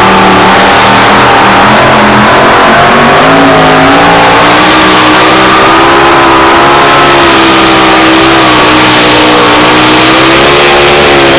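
Pulling truck's engine at full throttle, hauling the sled, loud and continuous. The pitch wavers and climbs a little about three seconds in, then holds high.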